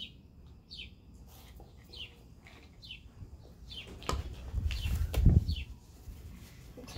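A bird repeating a short falling chirp, a little more than once a second. From about four seconds in come louder low knocks and rumbling close to the microphone, loudest a little past five seconds, as the cup goes down on the table and someone leans over it.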